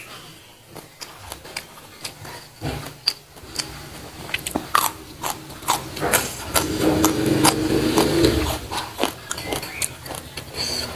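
Close-miked crunchy bites and chewing of raw green beans: many crisp snaps in a row, loudest in the middle.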